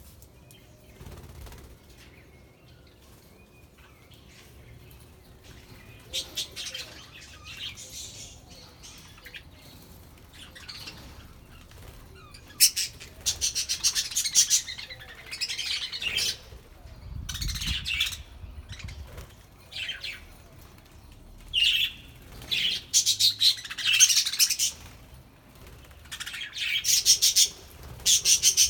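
A flock of budgerigars chirping and chattering in short, repeated bursts, faint at first and growing busier and louder from about twelve seconds in.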